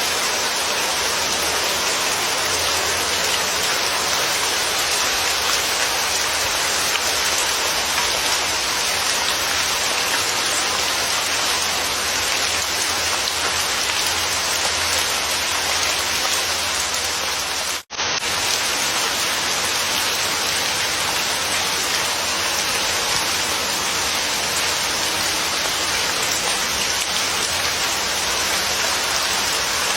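Steady, dense rain falling on a surface, an even hiss that cuts out for an instant about eighteen seconds in.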